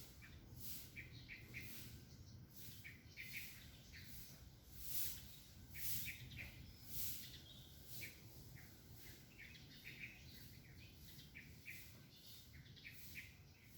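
Small birds chirping, with many short, high chirps repeating on and off over a low steady background rumble.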